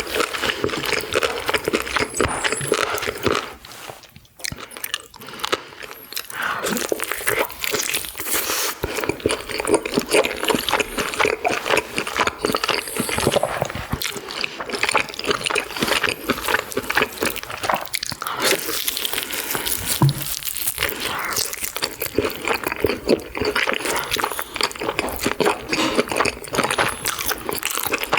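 Close-miked eating sounds: wet chewing, with many small mouth clicks and smacks. The sounds drop away briefly about four seconds in, then resume.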